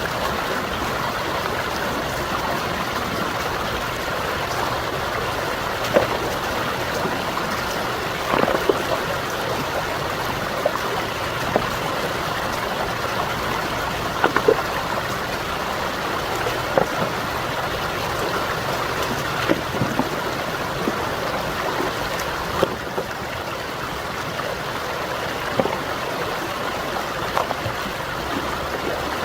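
Stream water running steadily, with brief sharper sounds every few seconds.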